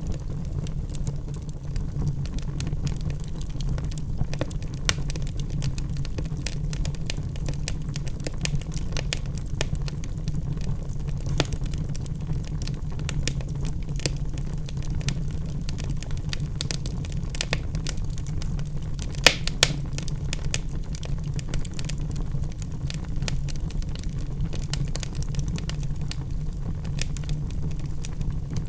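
Log fire burning in a fireplace: a steady low rumble of flames with frequent small crackles, and a few louder pops about two-thirds of the way through.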